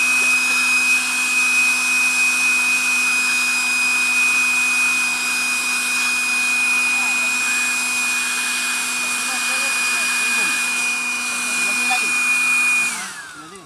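A motor running at one steady speed, then switched off about thirteen seconds in, its pitch falling as it winds down.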